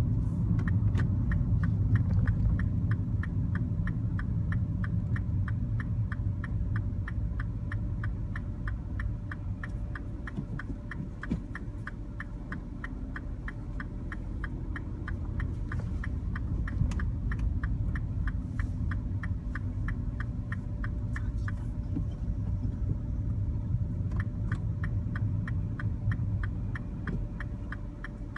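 Mini Cooper cabin while driving: steady engine and road rumble under a rapid, even ticking of the turn-signal indicator, about three to four ticks a second, which stops for a moment near the end and then starts again.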